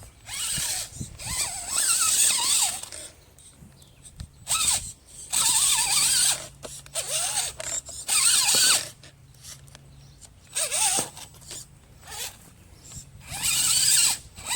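Redcat Gen7 Sport 1/10-scale RC crawler's electric motor and geared drivetrain whining and grinding in repeated short bursts of throttle, the whine rising and falling in pitch.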